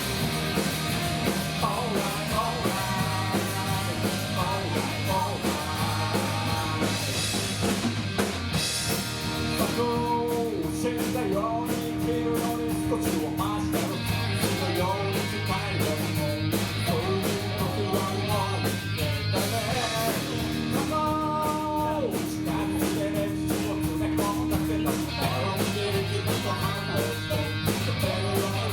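Live rock band playing: guitars, bass and drum kit with a steady beat, a sustained melody note held for several seconds twice.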